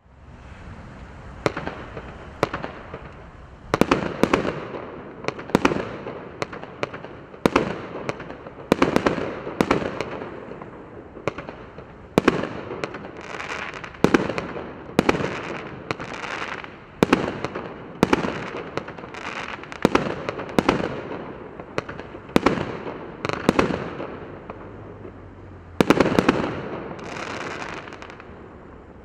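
A 19-shot 1.25-inch consumer firework cake firing shot after shot, about one a second, each a launch thump followed by an aerial burst. The loudest reports come about four seconds in and again near the end, and the firing stops shortly before the end.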